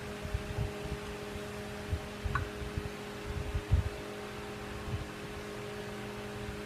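A steady electrical hum, with a few soft low thumps, the most distinct about four seconds in.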